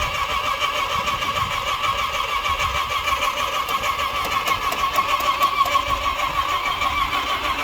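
Supercharged 412 stroker small-block Chevy V8 with a 6-71 blower and a big cam, idling unevenly with a steady high whine over a choppy lope. It sounds like it is trying to pick up fuel and might be running out.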